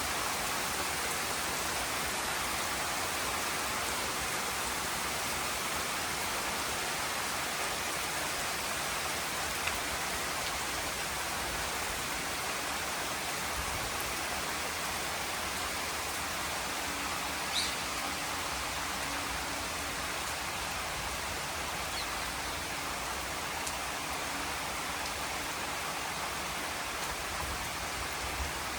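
Steady rain falling, an even hiss with a few brief faint ticks scattered through it.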